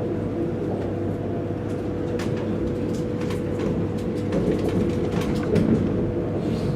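Cabin noise of a high-speed EMU train running: a steady low rumble with a steady hum and scattered light clicks and rattles.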